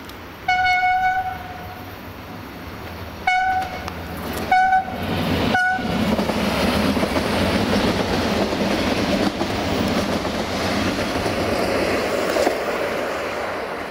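Horn of a Siemens Desiro diesel multiple unit: one long blast, then three short toots. The train then runs past with a steady rush of engine and wheel-on-rail noise.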